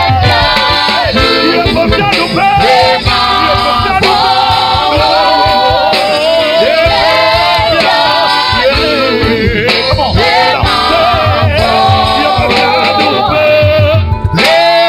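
Live gospel worship music: voices singing a melody together over band accompaniment with a steady low bass, at a constant loud level.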